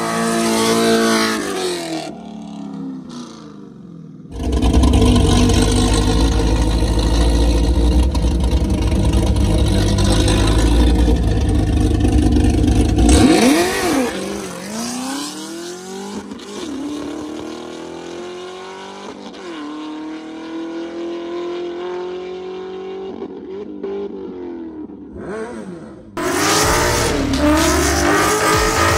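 Drag-racing car engines at full throttle on the strip: a loud, heavy run for about nine seconds, then engine pitch sweeping up and down repeatedly, and a sudden loud surge of another hard acceleration near the end.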